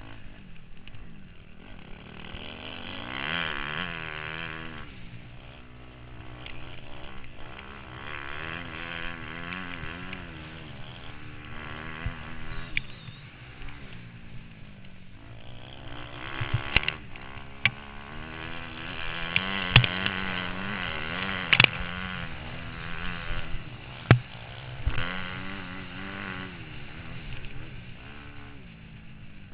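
Motocross bike engine, heard from the rider's helmet camera, revving up and falling back again and again through the gears. Several sharp knocks come through in the second half.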